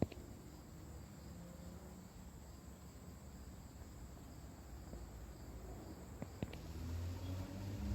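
Faint crickets chirping, with a sharp click at the start and two light clicks about six seconds in; a low rumble comes in near the end.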